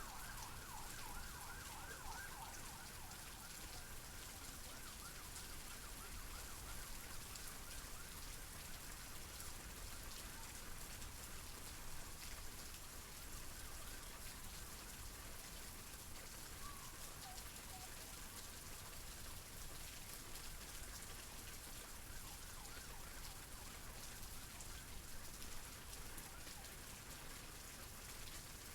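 Steady rain falling. At the start a siren warbles rapidly up and down and fades out within the first few seconds.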